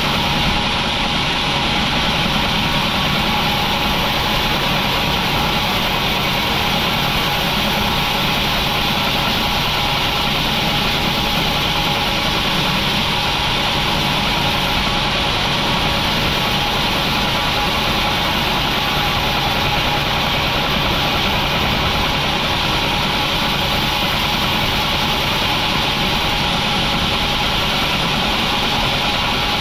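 Sawmill machinery running steadily: an even mechanical drone with several fixed tones, unchanging throughout, with no separate cuts or knocks.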